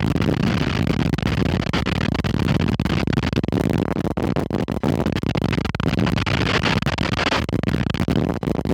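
Strong wind blowing across the microphone: a loud, continuous rush, heaviest in the low end, with many brief dropouts.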